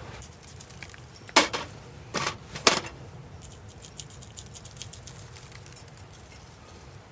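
Three sharp knocks within about a second and a half, then a run of faint, light clicks, as of objects being handled.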